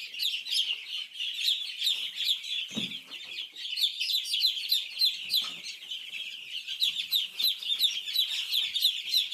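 A brooder full of week-old chicks peeping continuously, many short high chirps overlapping several times a second. A brief low knock sounds a little under three seconds in.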